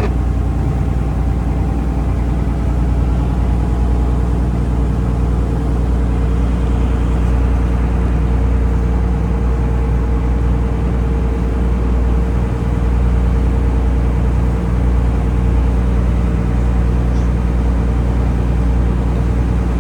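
Taxi boat's engine running steadily under way: a constant low drone with a steady hum that holds unchanged throughout.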